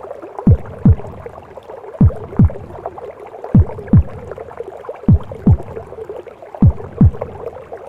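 A slow heartbeat as heard inside the womb: a lub-dub pair of low, falling thuds about every second and a half. It runs over a steady muffled whooshing womb noise.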